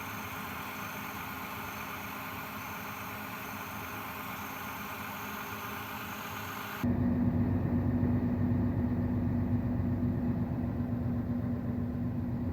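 Scania 113 truck's diesel engine idling steadily. About seven seconds in, the sound switches abruptly to a louder, deeper engine note, which then stays steady.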